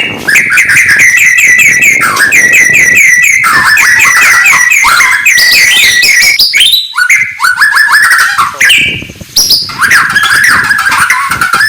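White-rumped shama singing loudly: fast runs of repeated short notes that switch to a new phrase every second or two, with a brief lull about nine seconds in.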